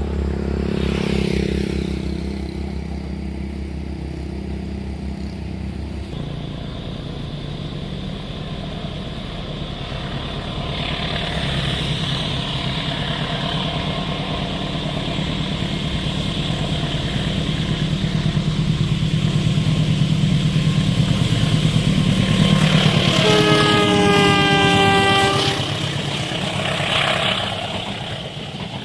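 A train approaching with a rumble that grows steadily louder, then the locomotive's horn sounding for about two seconds, its pitch dropping slightly as it passes. A motorbike goes by in the first few seconds.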